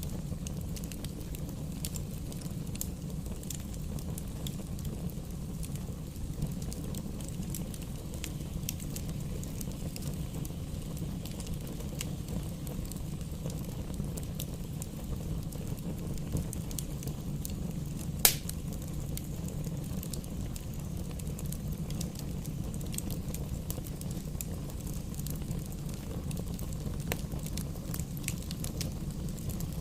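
Wood fire crackling in a fireplace: a steady low rumble of flames with frequent small crackles of burning logs, and one loud pop about eighteen seconds in.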